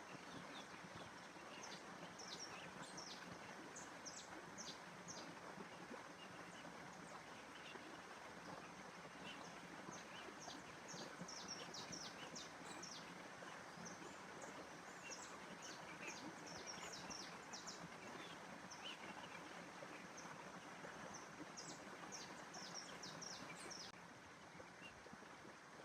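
Outdoor nature ambience: small birds chirping in short, high bursts over a faint, steady rushing background. The chirps come in clusters a few seconds in, around the middle, and again near the end.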